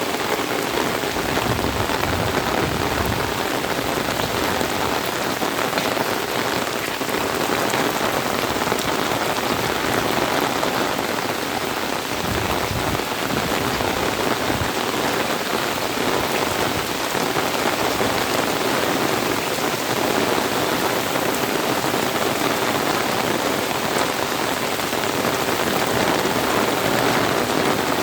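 Steady heavy rain falling and pattering on surfaces, an even dense hiss.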